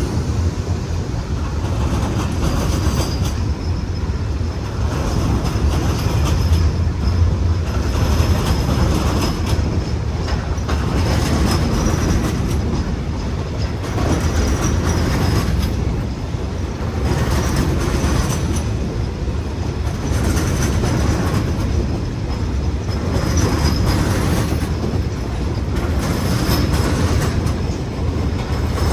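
Train rolling past at track side for a long stretch: a steady low rumble with repeated clattering of wheels over rail joints as car after car goes by.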